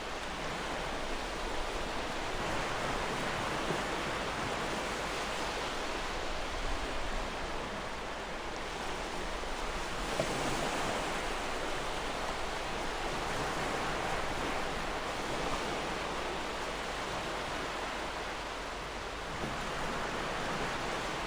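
Gentle ocean waves washing in, a steady hiss of surf that swells and eases slowly.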